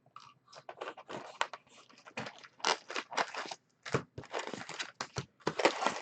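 Plastic shrink wrap being torn and crinkled off a sealed box of baseball trading cards, with irregular crackling and rustling as the box is opened and emptied.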